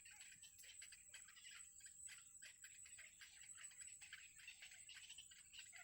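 Faint, rapid high-pitched cheeping and ticking from nestling birds in the nest, many short calls a second, over a steady thin high tone.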